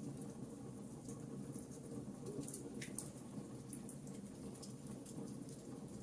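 Wood fire crackling: irregular sharp snaps and pops over a steady low rumble of burning, with one louder pop about three seconds in.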